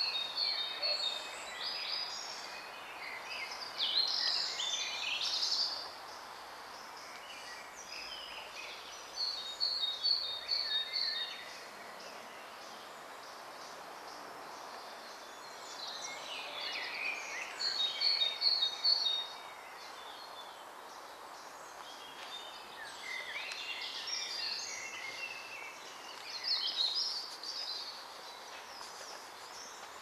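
Songbirds singing in separate high-pitched phrases a few seconds long, some opening with a quick run of repeated notes, with pauses of several seconds between them over a steady background hiss.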